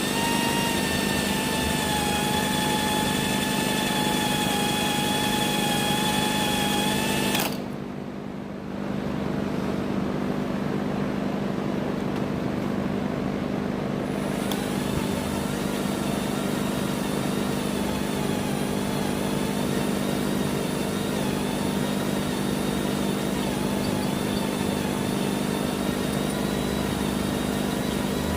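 Electric drill running steadily as it bores through the steel rear trunnion of an AK-type pistol, with a steady motor whine. It stops for about a second some seven seconds in, then runs on again.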